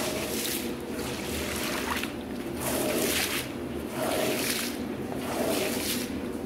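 Wet carpet being washed in repeated strokes, water swishing across the pile about once a second, over a steady machine hum.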